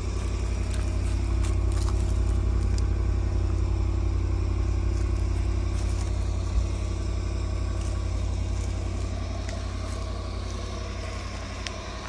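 Land Rover LR4 engine idling steadily at the tailpipe just after a start, a low even rumble, while the exhaust pours thick white smoke. The owner takes this for a blown head gasket. There is one brief tap about halfway through.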